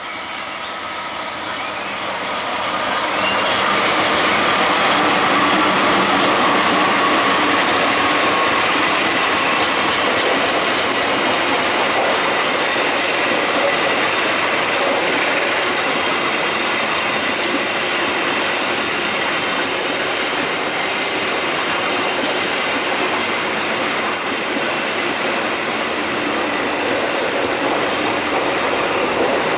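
A diesel-hauled passenger train passing close by, growing louder over the first few seconds as the locomotive nears, then a long steady run of carriage wheels rumbling and clattering over the track with a thin, steady wheel squeal.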